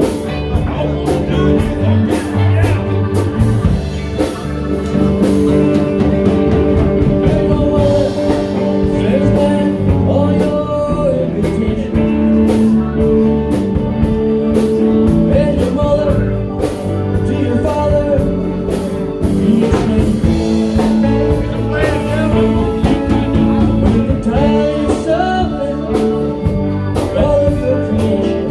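A live band playing a song, with a singer.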